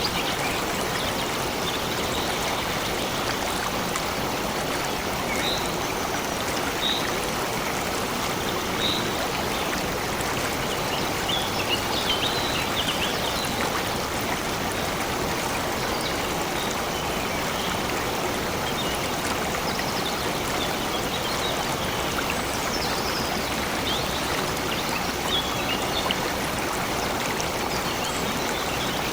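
Flowing stream running steadily, with short, high bird chirps here and there over it.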